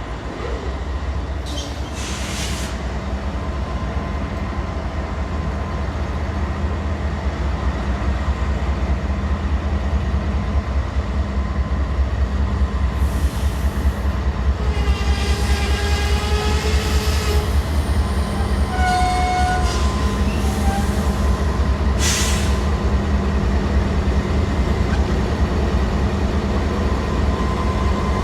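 Freight train rolling past, a steady low rumble of wheels and cars that grows louder over the first several seconds, with brief squeals from the wheels about halfway through.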